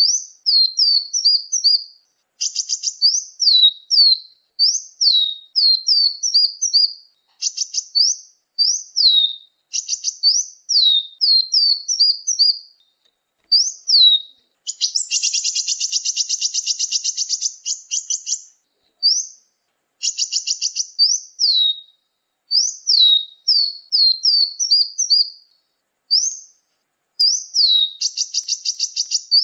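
Bird-lure recording of small songbird calls: high, clear whistles that slide down, repeated in quick runs, broken by fast chattering trills, one of them lasting a few seconds about halfway through.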